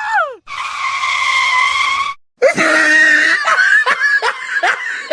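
A long, shrill, held scream, then after a short break a quick run of short rising-and-falling calls, about three a second.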